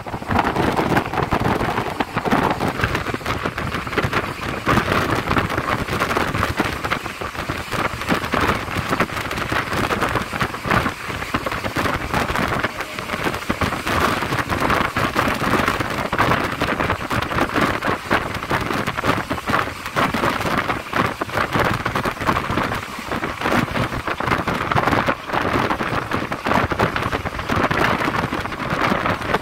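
Steady running noise of a moving train heard from on board: a dense, continuous rattle of wheels on rails mixed with rushing wind.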